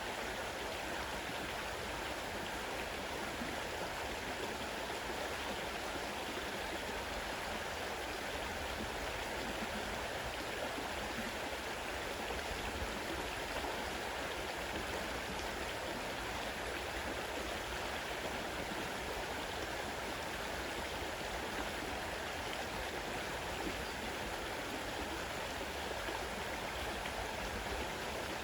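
Fast-running river water rushing steadily over rocks.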